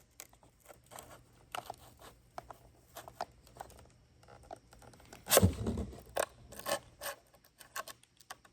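Foam RC airplane parts being handled and pressed together over barbecue-skewer pins: light scraping and small clicks, with one louder bump about five seconds in.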